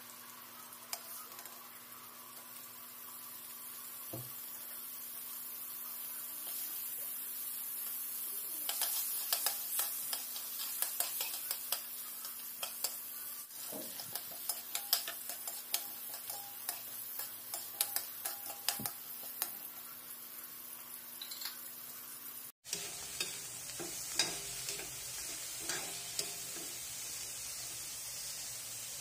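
Food sizzling in hot oil in a steel wok while a long metal spatula scrapes and taps against the pan as it is stirred. The sizzle grows louder over the first several seconds. From about a third of the way in there are frequent sharp clicks of the spatula on the metal. The sound breaks off for an instant about three quarters of the way through.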